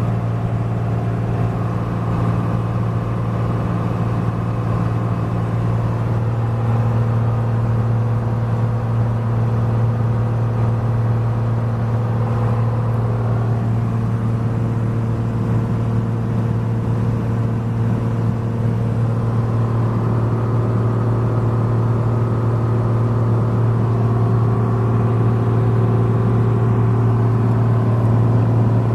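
A Cessna 182's piston engine and propeller running steadily in cruise flight: a constant deep hum with fainter steady tones above it that shift slightly a couple of times.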